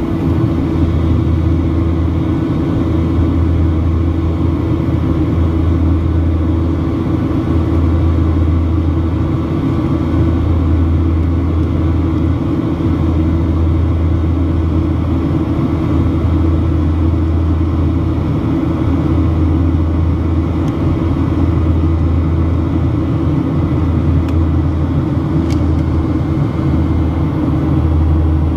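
Boeing 737-800 in flight: steady drone of engines and airflow, with a low hum that swells and eases slightly every few seconds.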